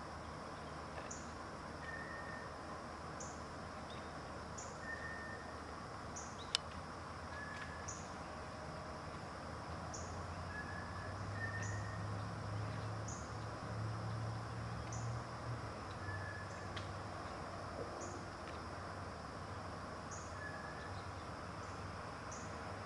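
Outdoor ambience: a steady background hiss with two sets of short repeated calls, a high chirp about once a second and a lower note every couple of seconds. A low rumble rises in the middle, and there is one sharp click.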